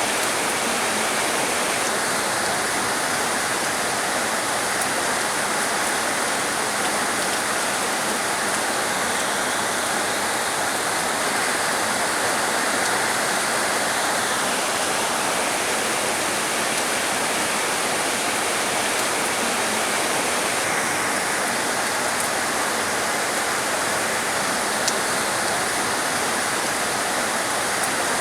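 Heavy rain falling steadily, a dense even hiss with no breaks. A brighter layer of the hiss comes in a couple of seconds in, drops away about halfway, and returns near the end.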